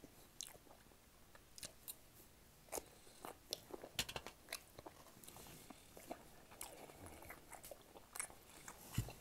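Close-miked chewing of food: soft, irregular wet mouth clicks and smacks.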